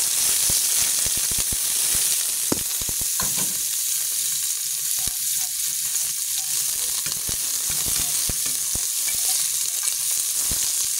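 Onion, carrot and garlic sizzling as they sauté in hot oil in a metal pot, with a steady hiss. A spoon stirring them clicks and scrapes against the pot many times.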